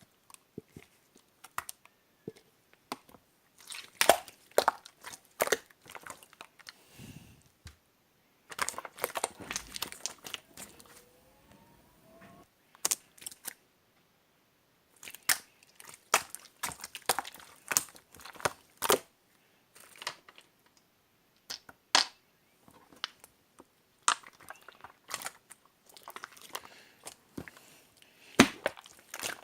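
Clear blue slime being squished and pressed by hand, giving irregular sticky pops and crackling clicks in clusters, with short pauses between handfuls.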